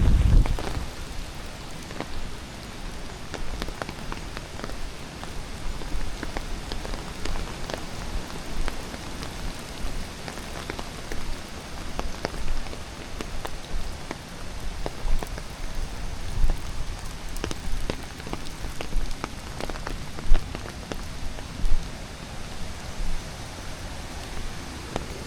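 Steady hiss of falling water with many small, irregular drips and ticks, a few louder ones in the second half.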